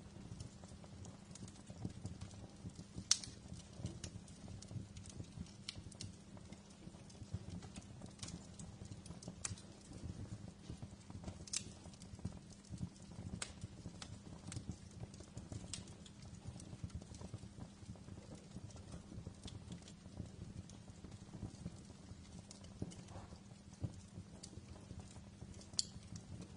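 Wood fire crackling in a fireplace: irregular sharp pops and snaps over a steady low rumble, with the loudest pop about three seconds in.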